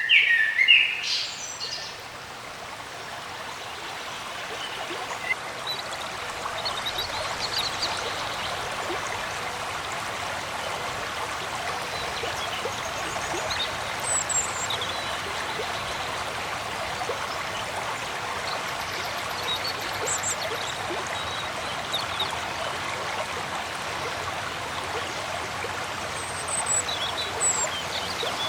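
Running water of a forest stream, a steady rush that grows louder over the first several seconds and then holds. A loud bird call right at the start, rising in pitch, and faint scattered bird chirps over the water.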